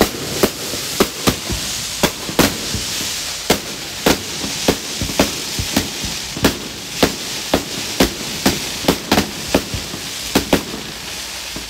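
Firecrackers going off in a long irregular run of sharp bangs, about two or three a second, over a steady hiss.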